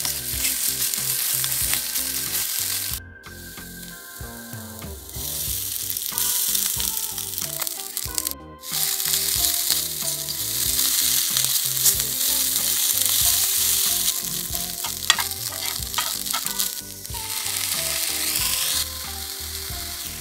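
Egg, vegetables and noodles sizzling in a non-stick frying pan while a silicone spatula stirs and tosses them, with small clicks and scrapes among the hiss. The sizzle cuts out briefly about three seconds in and again about eight seconds in, and runs quieter for a couple of seconds after the first break.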